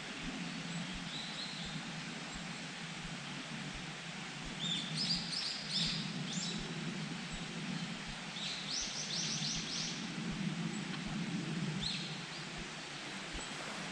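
A songbird singing in short phrases of quick, repeated high notes, the clearest bursts about five seconds and nine seconds in, over a steady low rumble of background noise.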